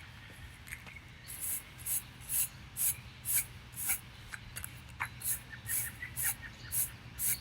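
A hand brush sweeping a sidewalk in regular strokes, about two swishes a second, over a low steady hum.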